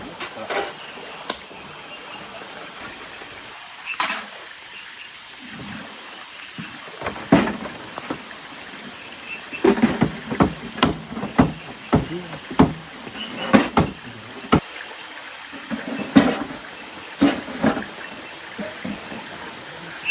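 Steady rain hiss with irregular knocks and taps over it, coming thick and fast in the middle stretch.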